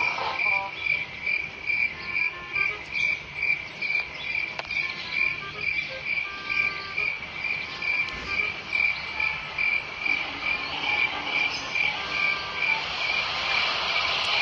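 Cricket chirping steadily, a little over two chirps a second.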